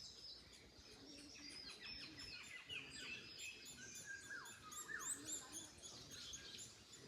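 Several small birds chirping and calling, many short, quick notes and down-slurred whistles overlapping, over a low, faint hiss of wind in the trees.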